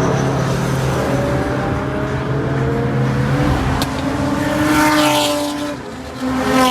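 A car engine accelerating, its pitch climbing steadily for several seconds, then dropping at a gear change near the end.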